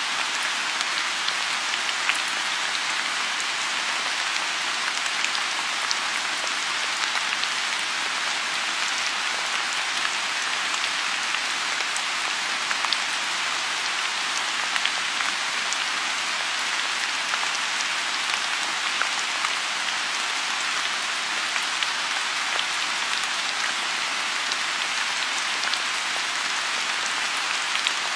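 Steady rain falling on a lotus pond: an even hiss with scattered sharper drop ticks throughout.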